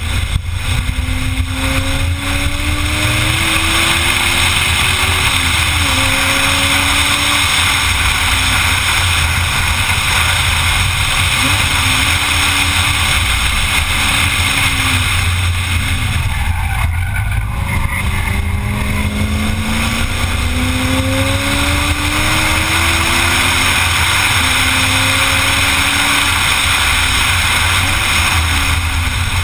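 Car engine under hard acceleration on a track lap, its pitch climbing in long rises that drop back at each gear change, over a heavy rush of wind noise. About halfway through the engine note falls away for a couple of seconds as the car comes off the throttle, then climbs again.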